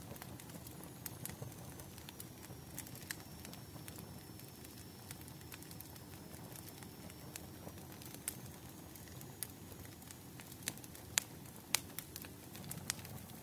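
Bonfire crackling: irregular sharp pops and snaps over a low steady rush of flames, with a couple of louder pops near the end.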